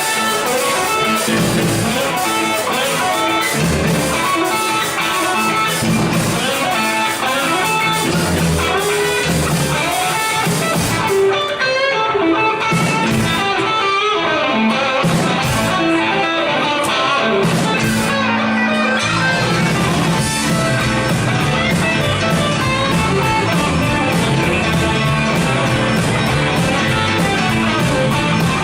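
A rock band playing live, with electric guitar to the fore over bass. The highest sounds thin out for several seconds about eleven seconds in, and around twenty seconds a fuller low end and a fast, steady run of high ticks join in.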